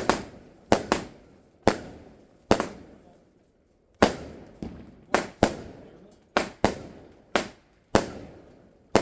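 Fireworks going off: about a dozen sharp bangs at uneven intervals, each trailing off in an echo, with a pause of about a second around halfway.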